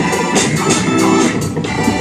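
Live church praise music: organ chords held over a steady beat.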